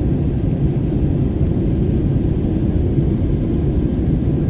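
Steady low rumble of airplane cabin noise, the engines and airflow heard from inside the passenger cabin in flight.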